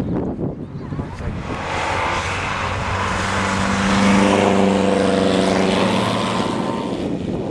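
A prewar racing car's engine passing at speed, growing louder to a peak about halfway through and then fading as it goes away.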